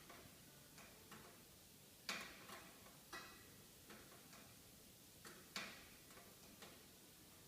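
Wood fire in a fireplace crackling: faint, irregular pops and snaps, the sharpest about two seconds in and again about five and a half seconds in.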